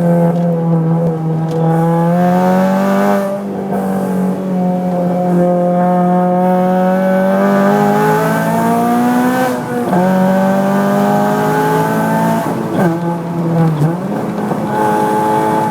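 Honda Civic Type R FN2's 2.0-litre four-cylinder i-VTEC engine, breathing through a Gruppe M intake and Martelius exhaust, pulling hard under acceleration. The pitch climbs steadily and drops sharply three times as it shifts up through the gears.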